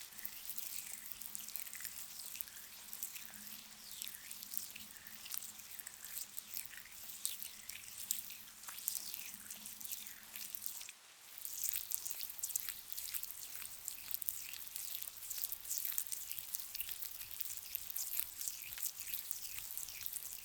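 Wet, crackly rubbing of a grainy face scrub close to the microphone: a dense run of small squishes and ticks, pausing briefly about halfway, over a soft rain backdrop.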